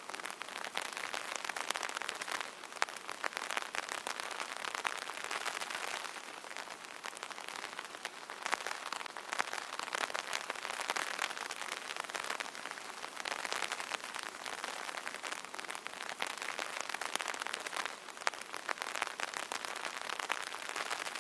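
Steady light rain pattering on an open umbrella's fabric canopy, a dense stream of individual drop taps that swells and eases gently.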